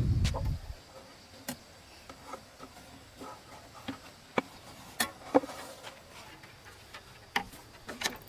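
Sparse, sharp light clicks and knocks at irregular intervals, about seven of them, over a faint steady high background tone.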